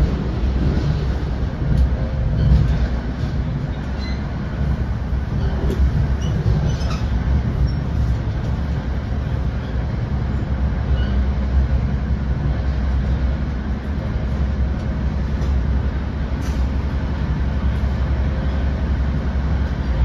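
Steady low rumble of an NJ Transit Comet II/IV commuter coach rolling along the Northeast Corridor, heard from inside the passenger car, with a few faint clicks.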